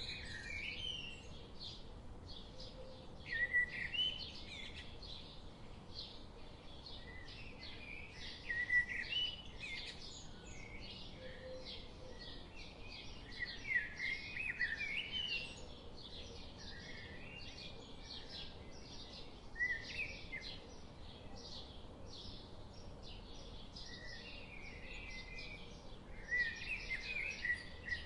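Several wild birds singing and chirping in a forest, with short song phrases every few seconds and rapid thin chirps throughout, over a steady faint background hiss.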